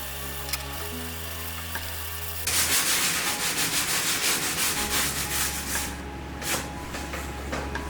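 Sandpaper rubbed back and forth by hand over cured resin-coated carbon fiber cloth, flattening an overlapping seam. There is a quick run of strokes from about two and a half seconds in to about six seconds, then a couple of single strokes, over steady background music.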